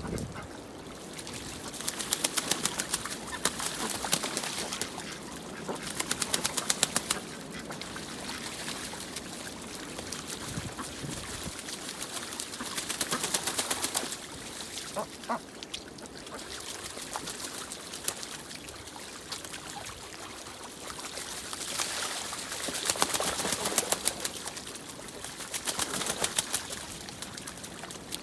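Ducks splashing in pond water, in several spells of rapid splashing lasting a second or two each, with a short call about halfway through.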